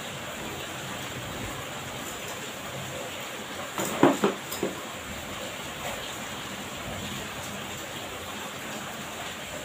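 Steady hiss of heavy rain falling on the ground and roof. About four seconds in there is a brief cluster of sharp knocks.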